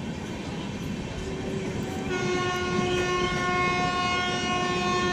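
Indian Railways express train running at speed, a steady rumble of wheels on track. About a second in the locomotive's horn begins softly, then about two seconds in it sounds fully, a loud, rich chord held steadily for over three seconds.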